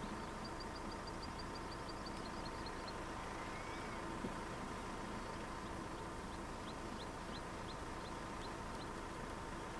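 Small bird calling over steady outdoor background noise: a quick run of short high notes in the first three seconds, then a slower series of short high notes, about two or three a second, from about six seconds on.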